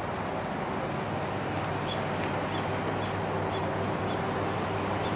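Low steady hum of a distant approaching train locomotive, with a bird chirping repeatedly, about two to three short high chirps a second.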